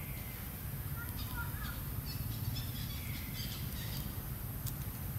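Outdoor ambience: a steady low rumble with a scatter of faint, short bird chirps between about one and three and a half seconds in.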